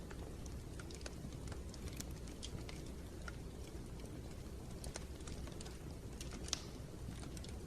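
Wood fire crackling in a fireplace: scattered small pops and snaps over a low steady rumble, with one louder pop about six and a half seconds in.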